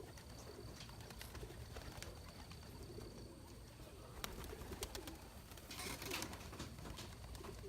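Pigeons cooing softly and repeatedly, with a few sharp clicks about four to five seconds in and a short rustling burst about six seconds in.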